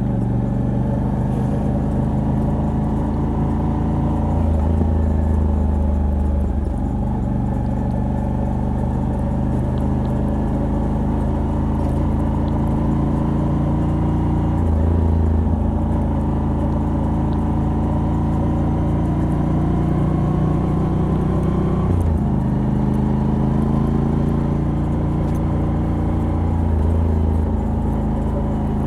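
Moto Guzzi V85TT's air-cooled transverse V-twin, on its stock exhaust with a decat pipe, running while riding. Its pitch climbs slowly as the bike gathers speed and drops sharply at gear changes, most clearly about halfway through and again about three quarters of the way through.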